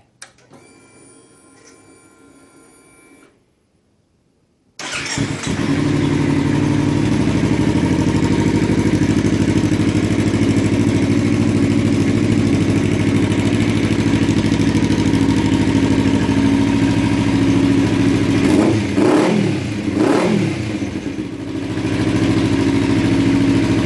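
2016 Kawasaki Ninja 300's parallel-twin engine starting through a carbon aftermarket muffler whose baffle is in but has its rear plate removed. A faint steady whine comes first, then a short quiet. The engine catches about five seconds in and idles steadily, with two quick throttle blips near the end. The sound sits between the baffled and unbaffled versions, a bit of a happy medium.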